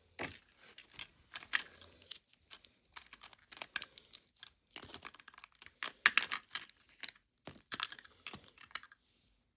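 Small plastic miniature toy food pieces being handled and set down, giving irregular light clicks and rustles that stop near the end.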